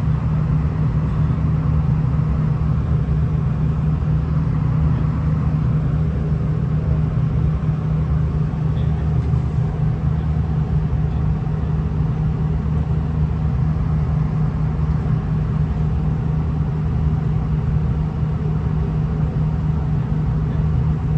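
Inside a V/Line VLocity diesel railcar, its underfloor diesel engine drones steadily along with the rumble of the train running.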